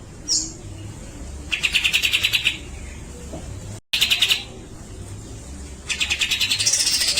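Cucak jenggot (grey-cheeked bulbul) giving its fast rattling 'besetan' chatter: a short call, then three buzzy rapid trills of under a second each, the last one longest and rising in pitch near its end.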